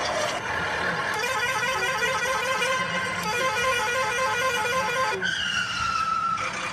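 Vehicle horn honking in quick repeated toots, then a long horn note about five seconds in that sags slightly in pitch.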